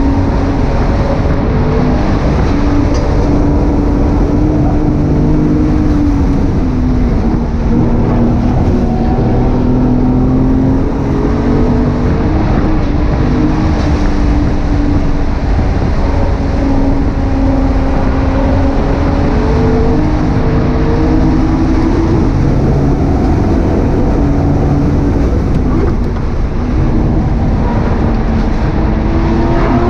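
Single-turbo BMW 135i's inline-six engine running hard at speed, its pitch climbing under acceleration and dropping several times through the lap.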